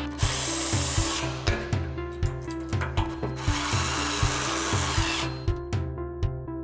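Cordless drill driving screws into the frame corners in two bursts, the first lasting about a second and the second starting about three and a half seconds in and stopping near five seconds, over background music with a steady beat.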